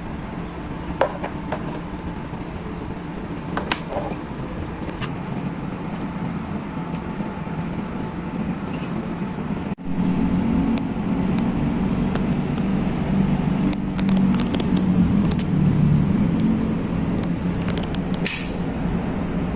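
Small electric exhaust fan running with a steady hum and whoosh, louder after a sudden break about ten seconds in. There are a few sharp clicks and taps.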